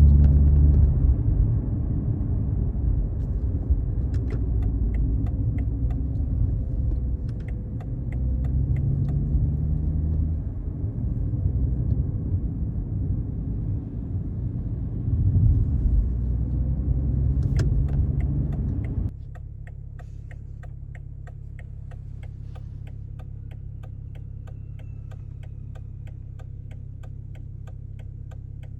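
BMW 540i's B58 3.0-litre turbocharged straight-six with an ARP aftermarket exhaust, heard from the cabin as a deep rumble that swells and fades with the throttle. About 19 s in the rumble falls away suddenly to a quiet steady hum, and an even ticking, like a turn-signal indicator, is left clearly audible.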